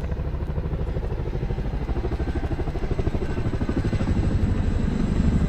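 Boeing CH-47 Chinook tandem-rotor helicopters flying past low, a rapid rhythmic rotor chop that grows louder toward the end.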